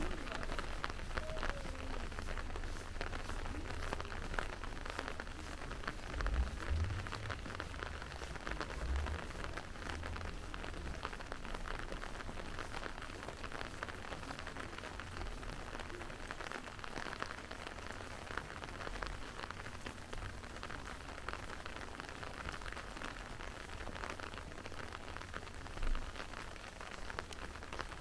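Steady rain falling, a dense patter of small drop ticks over an even hiss. A low rumble runs underneath and swells briefly about six to nine seconds in.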